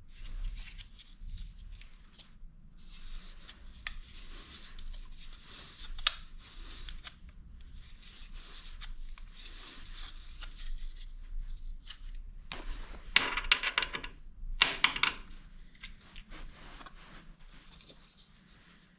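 Hands handling and unwrapping packaging from kit parts: steady rustling and scraping with small clicks, and two louder ripping sounds about two-thirds of the way through.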